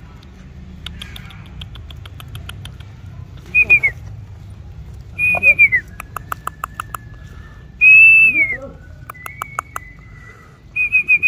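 A songbird singing close by: four loud whistled phrases that fall in pitch at the end, with rapid runs of clicks and held thin whistle notes between them.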